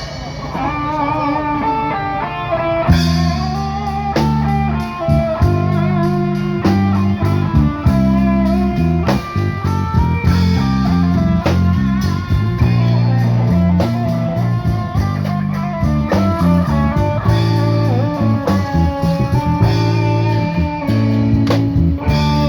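Instrumental band music from buskers: a guitar plays the melody, and a bass line joins about three seconds in.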